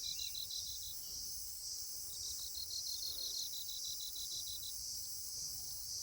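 Insects chirping: two runs of evenly spaced high-pitched chirps, about five a second, one at the start and one from about two seconds in, over a steady high-pitched insect chorus.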